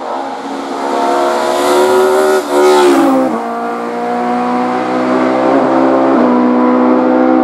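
Race car engine at high revs passing close on a hill-climb course, loudest about two to three seconds in, where its pitch falls as it goes by. It then holds a steady high note as it pulls away, with a brief shift about six seconds in.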